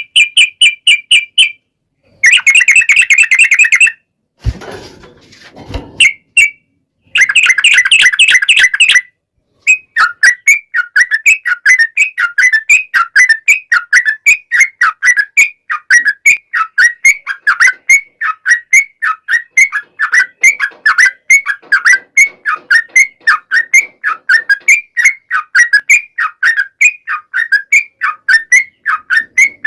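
Yellow-vented bulbul (trucukan) singing, loud and close. It gives short bursts of rapid chattering notes, then from about ten seconds a long run of quick repeated notes, about two to three a second.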